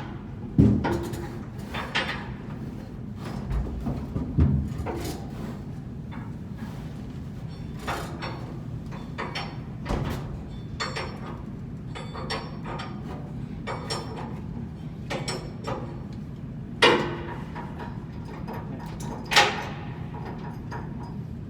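Scattered metal knocks and clanks from tools and parts during blower-wheel bearing work, a few of them sharp and loud, over a steady low machinery hum.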